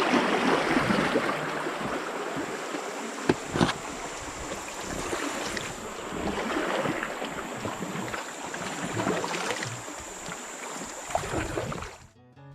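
Water splashing and sloshing around a kayak being paddled, with wind buffeting the microphone. Two sharp knocks come a little over three seconds in.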